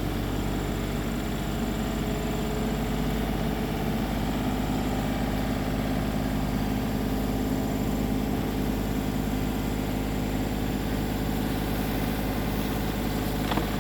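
Engine of a tractor or backhoe running steadily at a constant, idle-like speed.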